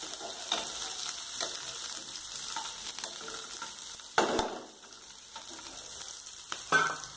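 Sliced onions and green chillies sizzling steadily in oil in a non-stick frying pan while a steel spoon stirs them with light scraping clicks. Two louder knocks of the spoon against the pan, about four seconds in and near the end.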